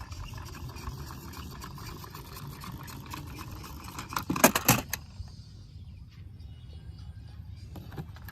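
Plastic toy vehicles being handled and rolled, rattling and clicking over a low steady rumble, with a loud burst of clattering about halfway through.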